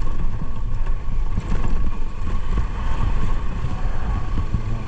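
Motorcycle engine running under way, with a low uneven rumble, and wind buffeting the microphone.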